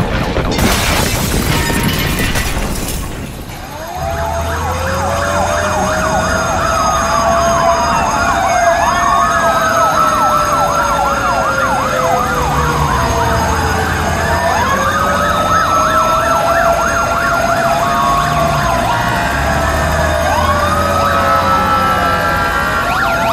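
Several emergency-vehicle sirens sounding together, slow rising-and-falling wails overlapping with rapid yelps, over a low drone. The sirens start about four seconds in, after a few seconds of loud noise.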